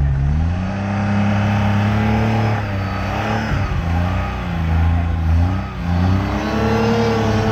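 Classic car's engine running under way, its revs rising and falling several times: climbing about half a second in, dropping around three seconds, then climbing again near six seconds.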